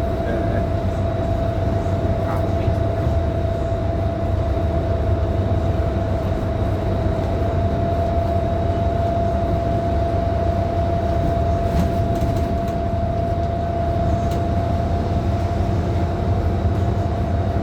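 Scania K310IB city bus heard from inside while driving: a steady low engine and road rumble, with a constant high-pitched whine held throughout.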